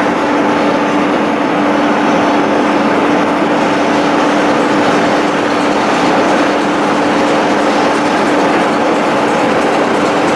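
A train running along the track: a loud, steady rolling noise with a continuous steady hum underneath.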